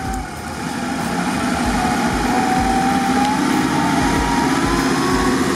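Off-road 4x4's engine running steadily under load, its pitch slowly rising.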